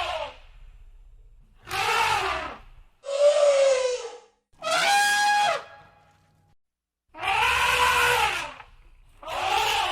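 Elephant trumpeting: a series of about five loud trumpet calls, each roughly a second long, with short pauses between them. The call in the middle ends on a held, steady note.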